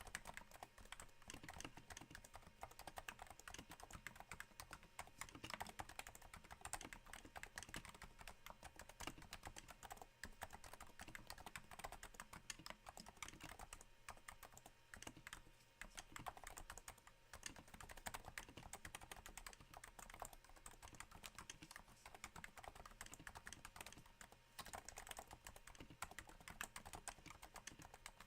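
Soft, uneven stream of keystrokes typed on a Cooler Master Novatouch with Topre switches damped by Hypersphere rings. The muted key presses patter a little like rain.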